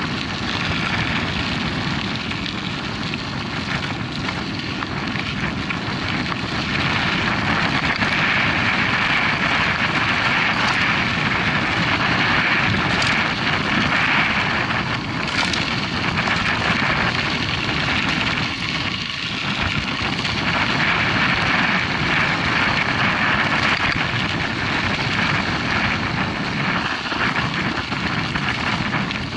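Mountain bike ride noise: wind rushing over the camera microphone and tyres rolling over a dirt track, a steady noisy rush that swells a little from about seven seconds in.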